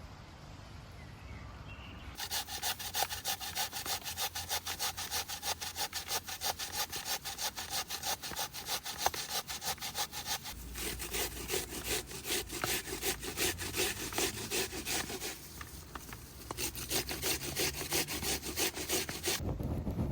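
Hand saw cutting through wood with quick, even back-and-forth strokes. It starts about two seconds in, pauses briefly near the three-quarter mark, then carries on until just before the end. Partway through the strokes turn deeper.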